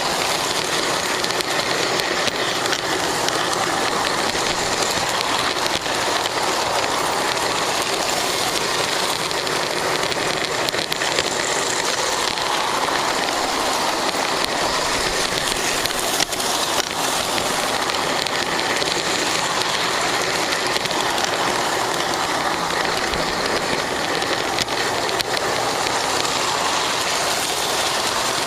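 Lionel GP9 O gauge model locomotive running, heard from on board: a steady whirring and rattling from its electric motor, gears and wheels on the track, with a few faint clicks.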